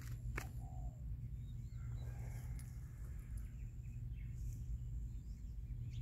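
Faint bird chirps over a low steady rumble, with one sharp click about half a second in.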